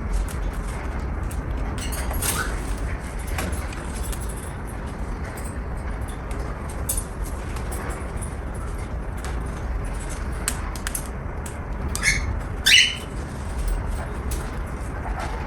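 Cockatiel giving two short, sharp calls close together near the end, over a steady low rumble and scattered small clicks.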